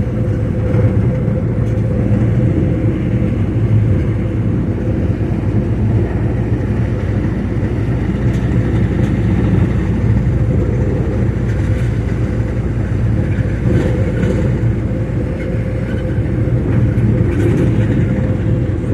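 A motor vehicle running steadily: a constant low engine and road rumble with a steady hum.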